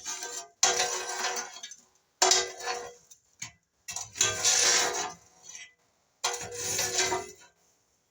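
Metal scraper scraping old ash out of a small wood stove's firebox, in four scraping strokes of about a second each with metallic clinks.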